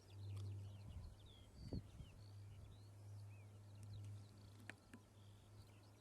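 Faint birds chirping: many short rising and falling calls, over a steady low hum.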